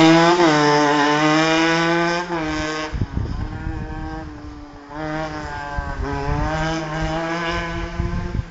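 Honda NSR 125cc single-cylinder two-stroke engine on a go-kart running hard at high revs; the sound drops away with a fall in pitch after about two seconds, then comes back strong from about five seconds in with the pitch climbing as it revs up again.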